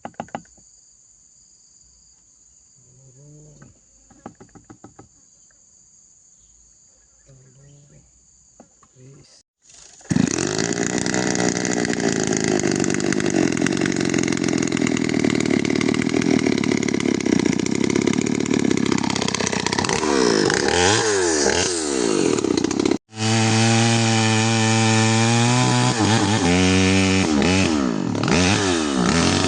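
Crickets or cicadas chirring steadily at a high pitch, with faint voices, then after about ten seconds a two-stroke chainsaw starts loud and runs, its engine pitch rising and falling as it revs and cuts into wood.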